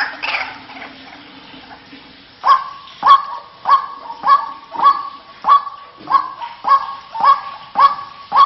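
White-breasted waterhen calling: the tail of a busy run of calls fades out at the start, then about two and a half seconds in a harsh call begins repeating at an even pace, a little under two a second.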